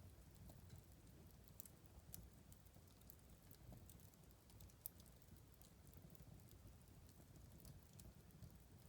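Faint crackling of a wood fire in a fireplace: scattered sharp snaps and pops over a low steady rumble.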